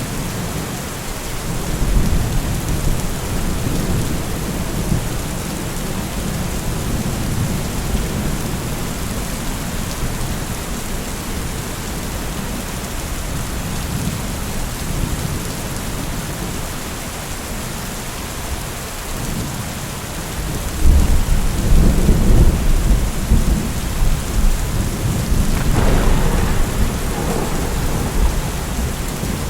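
Steady heavy rain with rolling thunder; a louder, deep thunder rumble breaks in about two-thirds of the way through and goes on rumbling.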